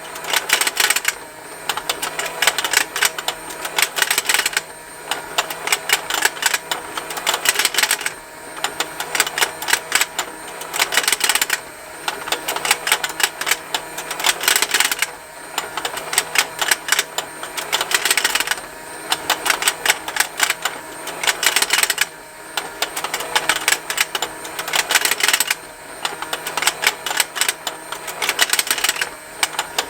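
Battery-powered rotating fishing-game toy: its small motor and plastic gears tick continuously in rapid clicks, with snapping plastic from the fish. The clatter swells louder about every three and a half seconds.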